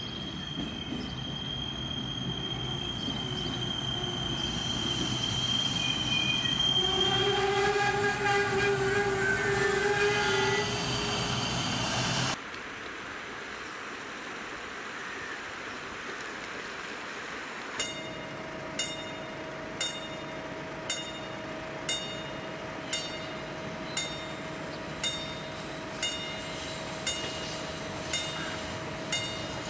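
A train approaching and running past, growing louder, with a steady high squeal and the train horn sounding for about four seconds partway through. After an abrupt cut, a sharp ringing strike repeats about once a second over a faint steady tone.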